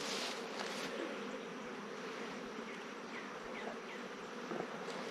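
Honeybees buzzing steadily around an opened hive, stirred up and defending it as the hive is worked.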